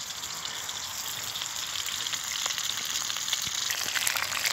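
Pieces of duck and partridge frying in a hot wok: a steady sizzle with a few small crackles, growing louder toward the end.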